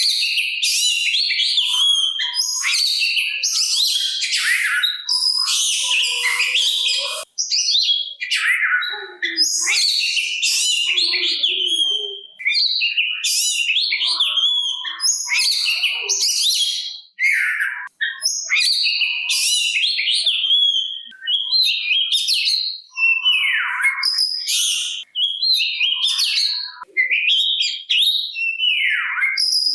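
Oriental magpie-robin (kacer) in full song: a fast, varied run of whistles, trills and harsh rasping notes, broken only by brief pauses.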